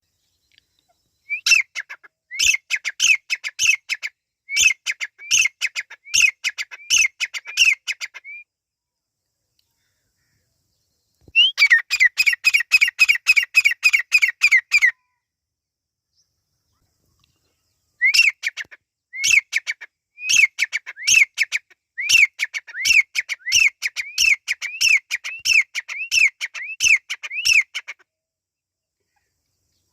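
Francolin (teetar) calling: three bouts of short, sharp calls repeated in series, the middle bout a fast run of about four calls a second, with pauses of a few seconds between bouts.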